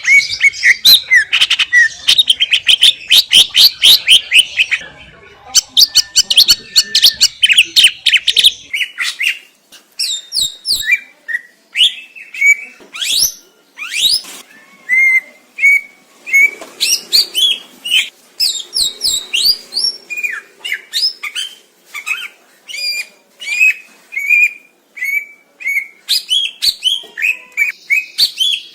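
Green leafbird (cucak ijo) singing: a loud, dense run of rapid chattering notes for the first eight seconds or so, then, after a short pause, a varied stream of short whistled and chirped phrases.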